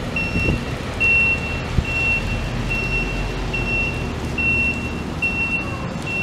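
A high electronic beep repeating evenly about once a second over steady background noise.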